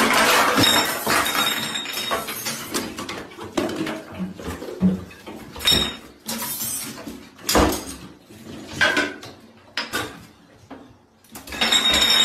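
Clatter and knocks of household objects being knocked about by cats: a loud rattling burst at the start, then a string of separate thumps and clinks.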